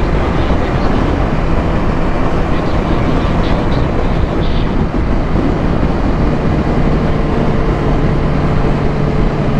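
Kawasaki H2 motorcycle under way: heavy wind rush over the microphone with the engine running underneath, settling into a steady held engine note about six seconds in.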